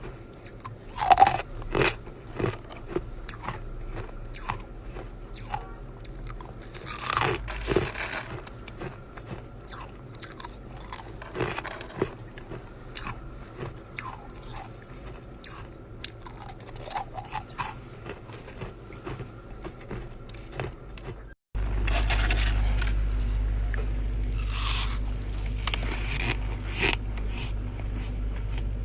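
Chest-freezer frost and ice being bitten and chewed, with repeated crisp crunches. Near the end the recording cuts to another clip with a steady low hum under the crunching.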